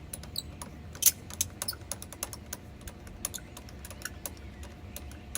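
Irregular light clicks and taps from handling a pressure-washer hose fitting as it is unscrewed and screwed back on, with one sharper knock about a second in.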